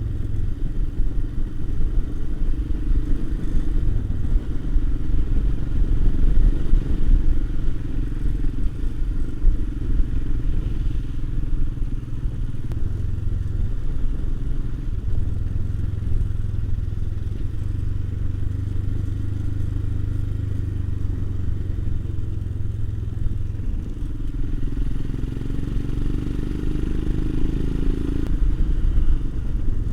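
Royal Enfield Himalayan's single-cylinder engine running steadily while the motorcycle rides along a road, a continuous low rumble whose pitch shifts a little with throttle.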